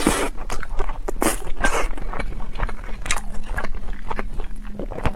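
Close-miked eating: a person biting into and chewing cola chicken wings, irregular short bites and chewing noises one after another.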